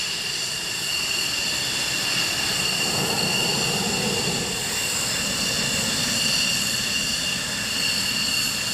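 Steady jet-engine sound effect of a toy jet plane: an unbroken rushing noise with a thin high whine that starts and stops abruptly.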